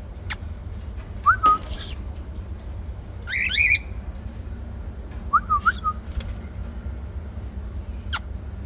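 Cockatiels calling: short rising whistled chirps about a second in and again near six seconds, with a louder harsh screech about three and a half seconds in. A few sharp clicks are heard too.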